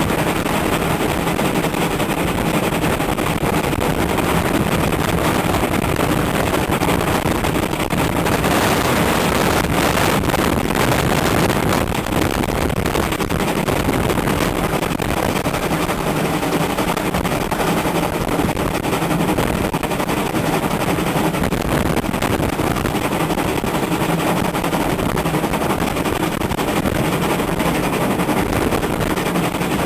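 Heavy wind buffeting the microphone: a loud, continuous rushing crackle.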